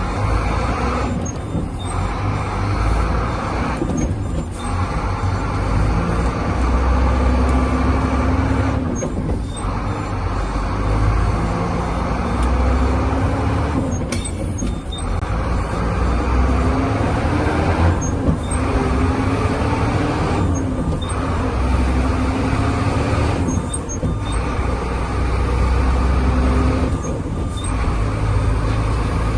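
Howo dump truck's diesel engine running, revved up and down again and again, its pitch rising and falling.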